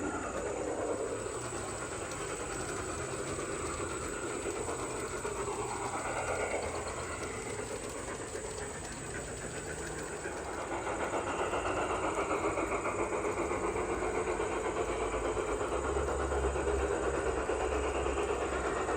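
Garden-scale model train running along its track, a steady rolling rumble with a faint high whine that gets somewhat louder in the second half.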